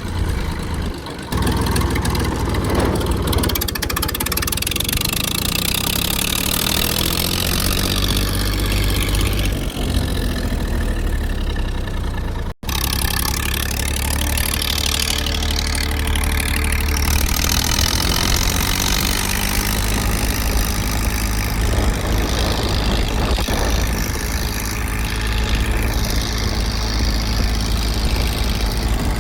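Tractor engine running steadily, with a momentary break about twelve seconds in.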